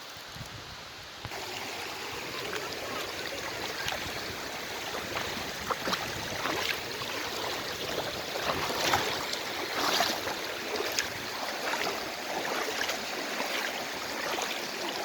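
Mountain stream rushing steadily over rocks, getting louder about a second in, with sharp splashes and clatters mixed in.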